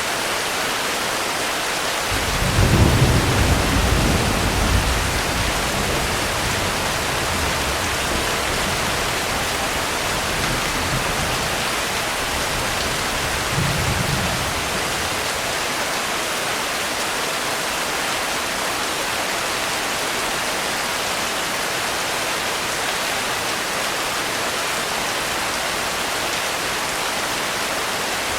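Steady heavy rain with distant thunder: a low rumble builds about two seconds in and fades over several seconds, and a second, weaker rumble comes near the middle.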